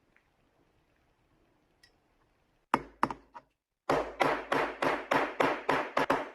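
A series of sharp knocks: three quick strikes, a short pause, then about ten more at roughly four a second.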